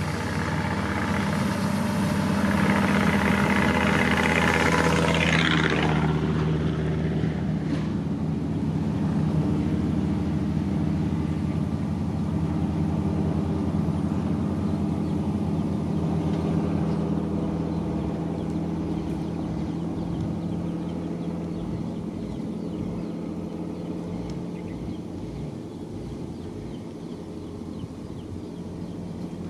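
Heavy diesel engine of a road construction machine running. It is louder and more strained for the first few seconds, drops in pitch and load about six seconds in, then settles into a steady hum that slowly fades.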